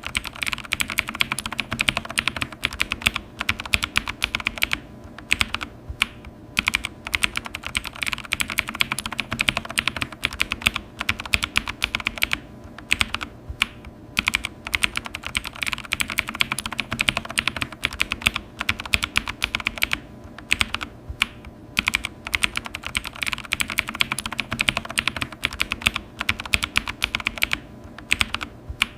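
Fast typing on a computer keyboard: rapid runs of key clicks broken by short pauses.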